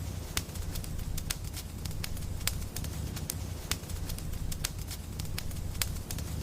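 Fireplace fire crackling: irregular sharp pops, several a second, over a low steady rumble.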